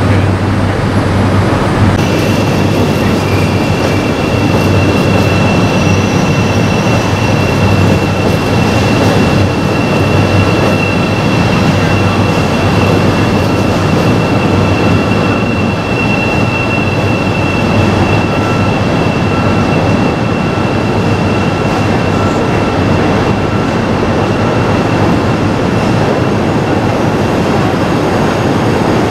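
Chicago L elevated rapid-transit train running along the elevated steel track: a loud, steady rumble of wheels on rail, with a steady high whine from about two seconds in that fades out past the middle.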